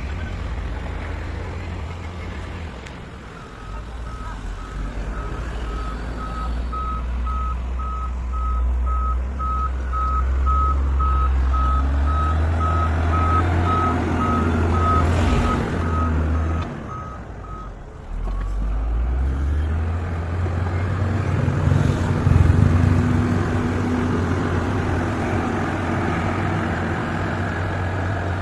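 Dump truck with its diesel engine running and its reversing alarm beeping steadily, about twice a second, for some fourteen seconds. The beeping stops, the engine dips briefly, then it picks up and keeps running.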